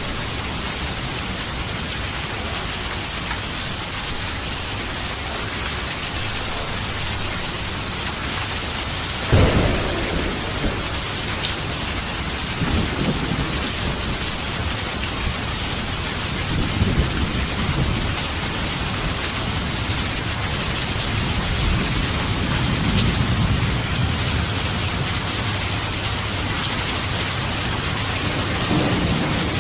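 Steady rain falling, with a sudden thunderclap about a third of the way in, followed by low thunder rolling and rumbling on and off.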